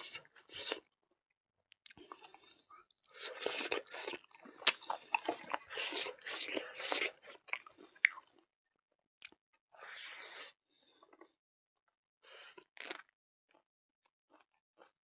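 Person chewing a mouthful of food close to the microphone, with crunching and wet mouth sounds. The chewing is busiest from about three to eight seconds in, followed by a few quieter, scattered chews.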